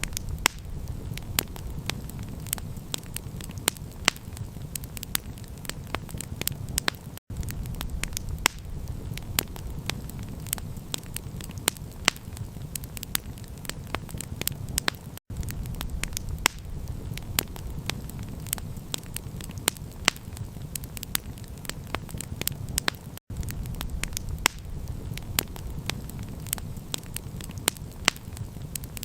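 Wood campfire crackling: many sharp pops and snaps, several a second, over a steady low rumble. The sound cuts out for an instant about every eight seconds, as at the seam of a looped recording.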